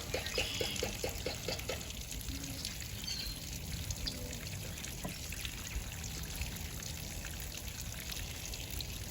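Water from a garden hose running through outboard water muffs and pouring and trickling out around the lower unit, with the engine not running. A quick run of rapid ticks sounds in the first two seconds.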